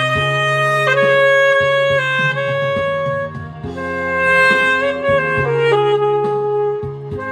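Instrumental music: a saxophone plays a slow melody of long held notes over a backing track with a steady bass line.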